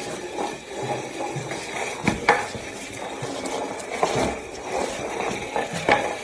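Scattered knocks and clatter, with the loudest knocks about two seconds in and near the end, over a steady background noise in a small room.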